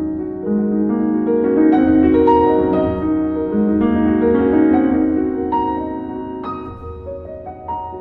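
Solo piano music: chords and melody notes struck and left to ring, growing softer for a moment near the end.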